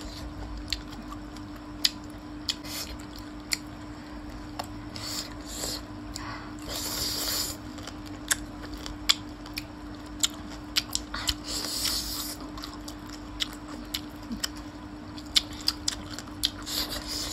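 Close-miked eating of gravy chicken feet: chewing and sucking on the bones, with many sharp wet mouth clicks and lip smacks, and two longer sucking slurps about a third and two thirds of the way through. A steady low hum runs underneath.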